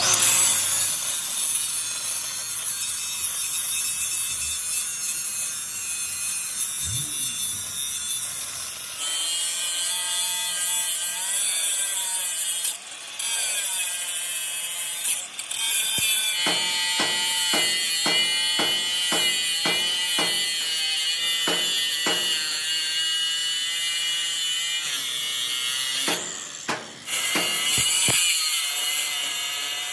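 Power tool grinding or cutting metal, its whine wavering as the load changes, with a run of evenly spaced knocks, about two a second, in the middle.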